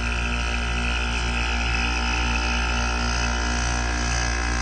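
Window air conditioner running on cool: a steady hum from its GMCC rotary compressor and fan.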